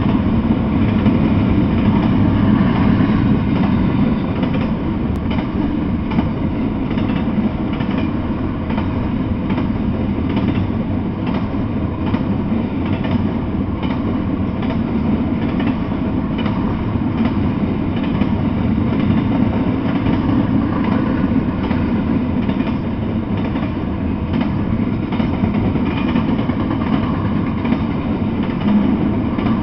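Double-stack intermodal container train rolling past steadily: the continuous noise of steel wheels on rail, with faint repeated clicks as the wheels cross rail joints.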